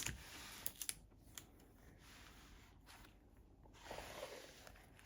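Faint rustling and a few light taps of a diamond painting canvas being handled.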